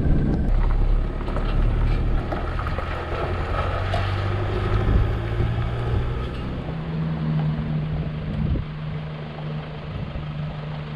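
A vehicle engine running steadily under road and wind noise; its low tone steps up about six seconds in.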